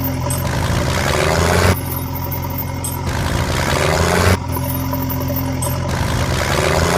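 Heavy engine idling steadily, as a short engine recording looped: the same stretch of a few seconds repeats with abrupt joins, about every two and a half seconds.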